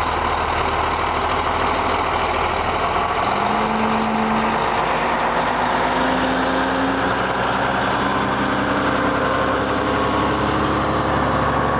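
Truck engine idling steadily, with a faint tone above it that steps up in pitch a few times.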